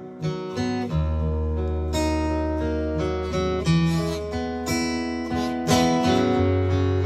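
Acoustic guitar picked and strummed in a slow instrumental fill of a country ballad, with a deep held bass note underneath from about a second in.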